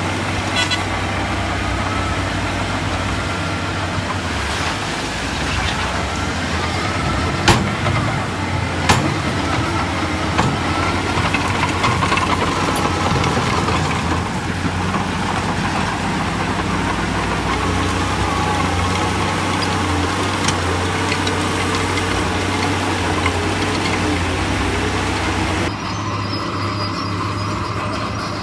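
Heavy diesel earthmoving machinery running steadily at work, with two sharp metallic clanks a second and a half apart about seven seconds in. The sound turns duller near the end.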